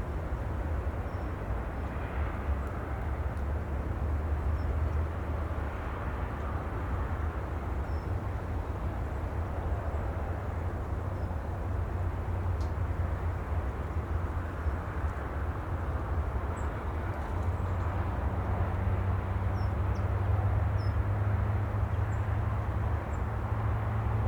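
Steady outdoor rumbling ambience, with a low hum that grows firmer in the last few seconds and a few faint, brief high chirps.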